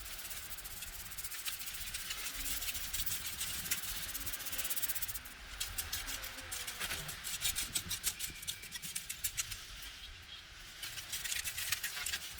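Rapid scratchy rubbing strokes against a surface, thickest from about five to ten seconds in.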